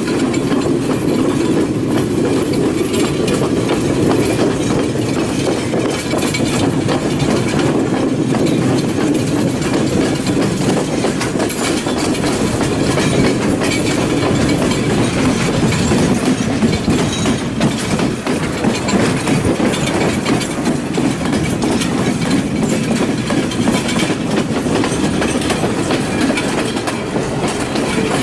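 Passenger train running along the track, heard from aboard: a steady rumble of the wheels and carriage with scattered clicks over the rail joints.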